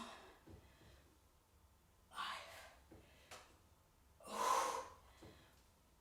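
A woman's heavy breathing in time with hip thrust repetitions: two loud, breathy exhalations about two seconds apart.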